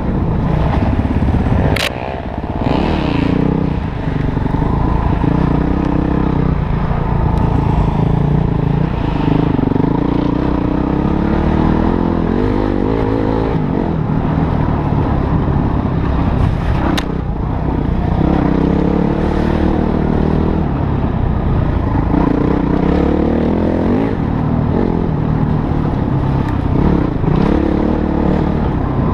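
Motorcycle engine under way, its pitch repeatedly climbing and dropping as the throttle is opened and closed through the gears, with a rattle of clatter and two sharp knocks, about two seconds in and about halfway through.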